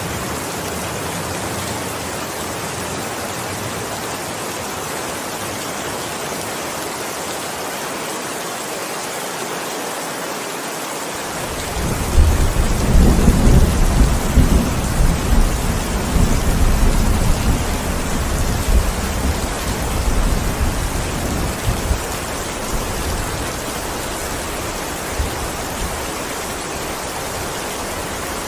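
Steady heavy rain. About eleven seconds in, a loud low rumble of thunder starts suddenly and then dies away over about ten seconds.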